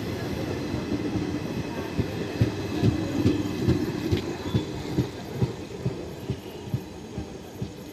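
Indian Railways ICF passenger coaches rolling past on the rails, the wheels knocking over rail joints about two or three times a second over a low rumble. The knocks start about two seconds in and grow fainter as the last coach passes and the train pulls away.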